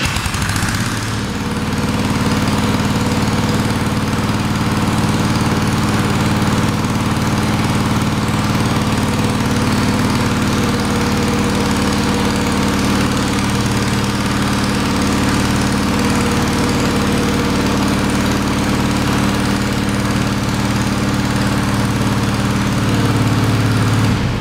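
Small combustion engine of a Shell Eco-marathon prototype car, started up and running steadily, a little louder near the end.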